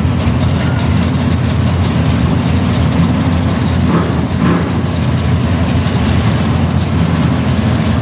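Drag-race car engines idling together, a steady deep rumble with no revving.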